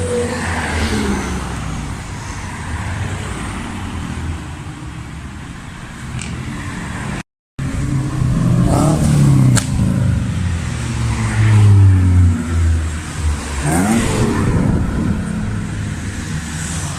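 Modified cars' engines and loud exhausts revving and accelerating away one after another, the engine pitch rising and falling. The sound drops out completely for a moment about seven seconds in, then comes back louder, with sharp rising revs twice.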